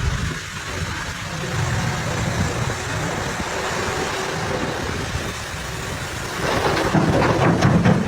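Heavy truck engine running with a steady rumble, growing louder about six and a half seconds in.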